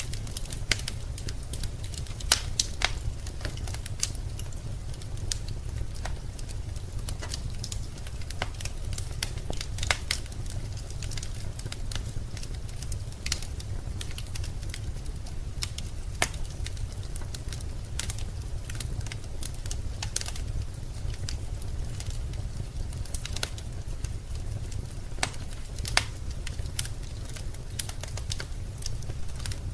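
Wood fire burning in a fireplace: irregular crackles and sharp pops of burning logs over a steady low rumble of the flames.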